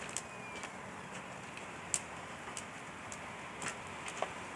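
Wood campfire crackling, with a steady low hiss and irregular sharp pops of burning wood every half second to second or so.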